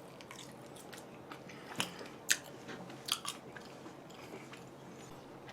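A person chewing food close to the microphone, with a few short, sharp crunchy bites about two and three seconds in.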